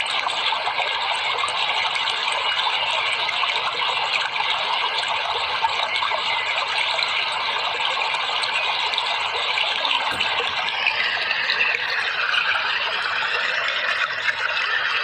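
Steady rushing water, an even hiss. About ten seconds in there is a click and the texture of the sound changes.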